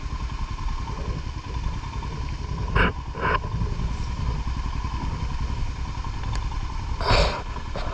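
Motorcycle engine idling steadily with a low, pulsing rumble. A few short clattering noises come about three seconds in and again near the end.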